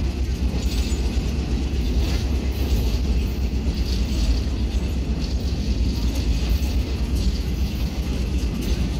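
Steady rumble of a moving passenger train, heard from an open-air railcar.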